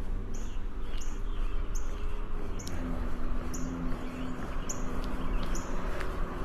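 A bird repeating one short, high call note about once a second, over a steady low outdoor rumble of wind and distant traffic.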